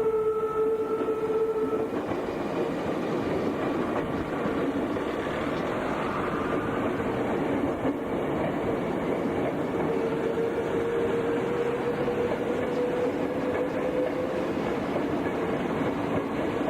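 Meitetsu Inuyama Line electric train running past on the rails: continuous rumble of wheels with a clickety-clack over rail joints and a faint motor whine that rises slowly. A steady tone at the start stops about two seconds in.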